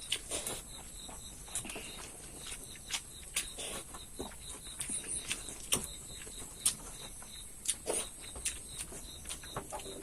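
Close-miked eating sounds: chewing and lip smacks as rice and fried fish are eaten, heard as irregular wet clicks a few times a second.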